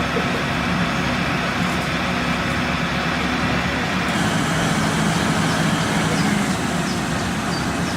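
A motor vehicle engine running steadily with a low hum. A higher hiss joins about four seconds in.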